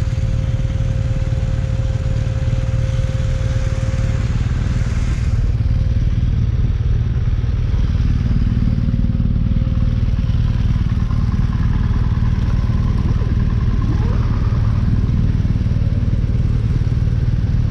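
BMW R1200GS Rallye's flat-twin boxer engine running steadily as the bike is ridden, getting slightly louder about six seconds in.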